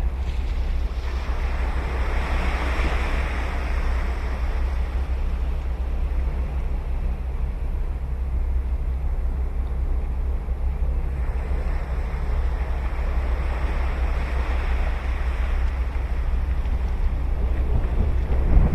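Ocean waves breaking and washing up the beach: two surges about ten seconds apart, over a steady low rumble of wind on the microphone.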